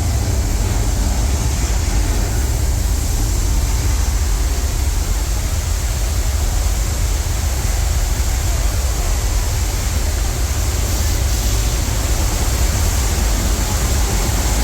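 Studio tour tram running steadily: a constant low rumble with an even rushing hiss over it.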